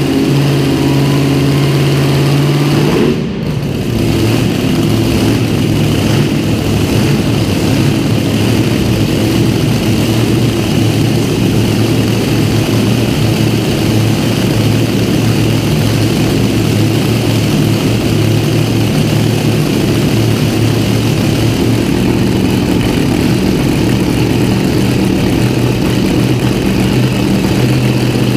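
An engine running steadily throughout, with a brief drop in level and pitch change about three seconds in.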